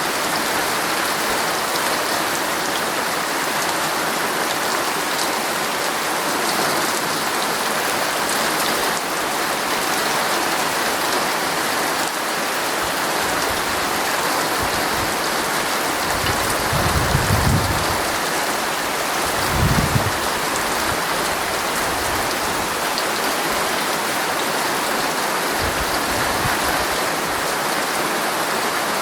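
Heavy rain drumming steadily on a tent's fabric, heard from inside the tent. A little past halfway come two brief low rumbles a couple of seconds apart, with a fainter one near the end.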